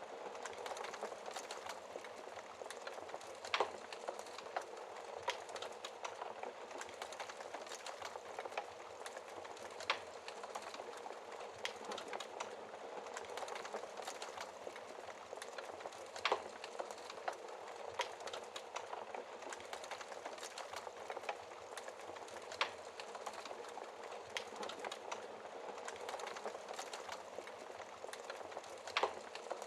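Fire burning behind a glass shield: a steady hissing crackle full of small ticks, with a louder pop about every six seconds, five in all.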